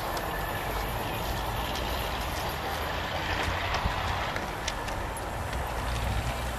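Passenger train of coaches rolling away along the track, a steady rumble of wheels on rails.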